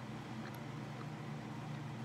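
Faint closed-mouth chewing, a couple of soft clicks, over a steady low hum.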